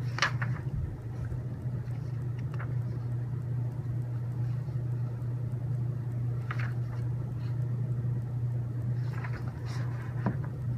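A few light clicks and taps of small plastic and metal robot-kit parts being handled, over a steady low hum.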